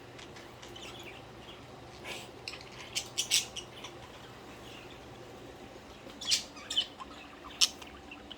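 Pet budgerigars chirping: short, sharp chirps in a few clusters, about two, three, six and seven and a half seconds in, over a faint low steady hum.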